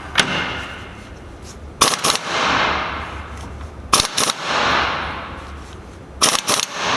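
Impact wrench hammering in four short bursts about two seconds apart, each followed by a fading hiss. It is tightening the pinion nut on a Salisbury differential a little at a time, crushing the collar to bring the pinion bearing preload up to about 18 inch-pounds of rolling torque.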